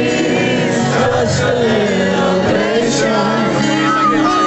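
Live band music with a voice singing over steady bass notes.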